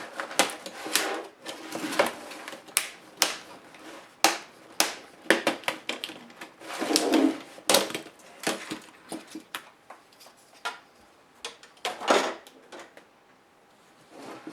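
Irregular sharp clicks and taps of plastic and metal laptop parts being handled and pried apart during a Compaq HP 6720s disassembly, with a couple of longer scrapes about seven and twelve seconds in.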